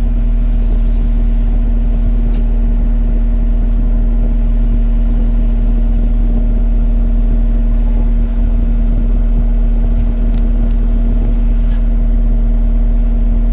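Diesel engine of heavy construction equipment running steadily at a constant speed, a loud even drone with a fixed hum. Faint clicks rise above it now and then.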